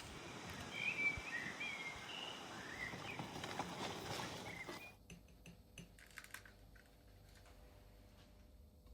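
Small birds chirping briefly and repeatedly over a steady outdoor background for about five seconds. The sound then cuts to a quiet room with a few faint light clicks and taps.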